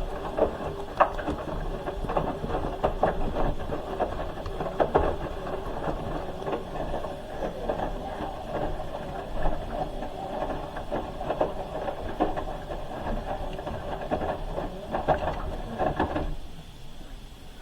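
Hoover H-wash 300 Plus washing machine mid-wash: the drum turning with the wet load sloshing and knocking irregularly. The sound drops away about sixteen seconds in as the drum stops.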